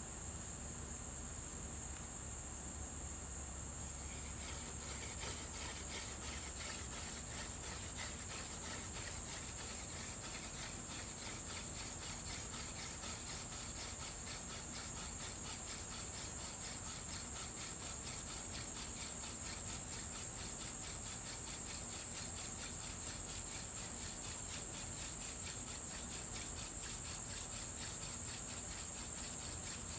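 Chorus of insects calling steadily at one high pitch, with a fast, even pulsing chirp joining in about four seconds in.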